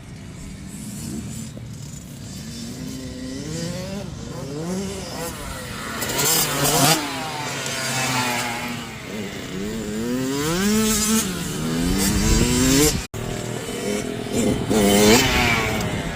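Small two-stroke Kawasaki motocross bikes revving on the track, the engine pitch climbing and dropping repeatedly as they accelerate and shift gears. The sound cuts off abruptly about 13 seconds in and then carries on.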